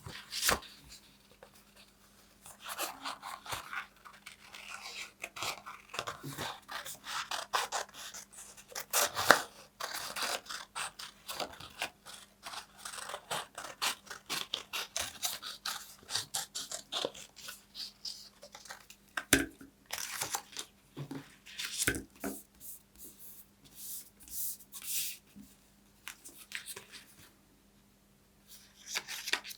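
Paper being worked close to the microphone: a dense run of crisp crackles and snips. A few louder sharp ones come about nine, nineteen and twenty-two seconds in, and there is a short lull near the end.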